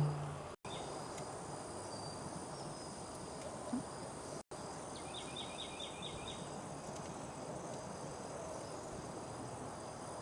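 Night insects outdoors: a steady high insect drone over a broad hiss, with a quick run of about six chirps in the middle. The sound cuts out completely for an instant twice.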